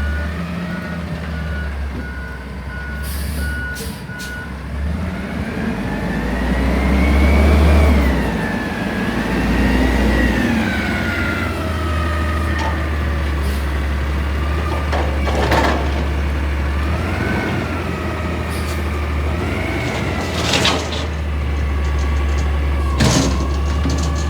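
CNG Peterbilt 320 front-loader garbage truck: its reversing alarm beeps steadily for the first few seconds. The engine then revs up and down over a heavy low rumble, and three short sharp sounds come in the second half.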